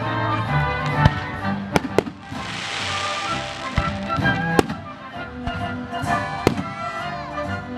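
Fireworks going off over a live symphony orchestra playing: several sharp bangs, a second or two apart, with a crackling hiss about two to three seconds in, over sustained orchestral music.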